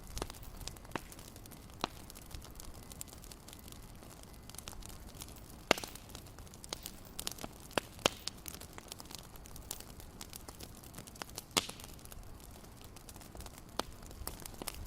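Wood fire crackling in a fireplace: a steady low hiss with irregular snaps and pops, a few of them much louder than the rest.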